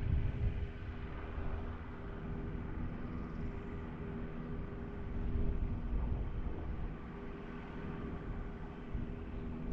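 A steady motor hum made of several even tones, over a low rumble of wind buffeting the microphone.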